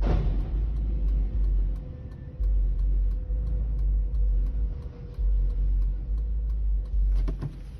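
Low, uneven rumble of a car on the road as picked up by a dash cam, with a faint steady hum.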